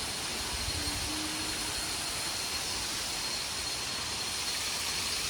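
Waterfall in full flow: a steady, even rush of falling water.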